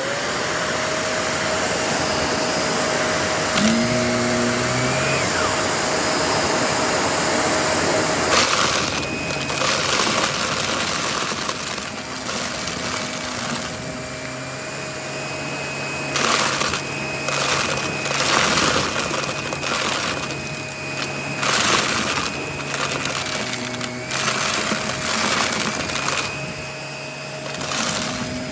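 Vacuum cleaner running with a steady motor whine; from about eight seconds in, cut-up cardboard puzzle pieces clatter as they are sucked up, in repeated short bursts.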